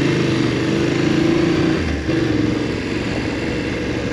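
BMW F850GS parallel-twin engine running on the move, its note steady for the first two seconds, then a brief dip and a somewhat lower, steady note for the rest.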